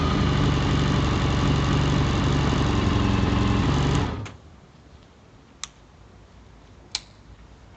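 Honda CBR750 Hurricane's inline-four engine idling steadily, then switched off about four seconds in; two short clicks follow.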